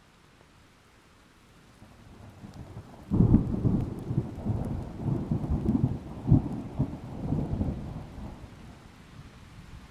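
Thunder: a low rumble builds from about two seconds in, breaks sharply a second later, and rolls on in repeated peaks before fading away near the end.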